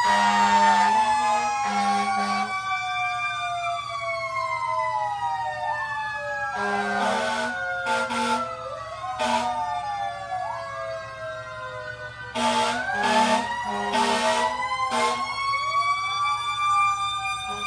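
Several emergency-vehicle sirens wailing at once, their pitches overlapping and sweeping slowly up and down, with short loud horn blasts in groups, the loudest near the start, around seven seconds in, and around twelve to fifteen seconds in.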